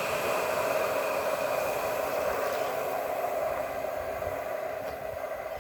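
Nottingham Express Transit Alstom Citadis tram passing and drawing away: a steady traction-motor whine over wheel-on-rail rolling noise, slowly fading.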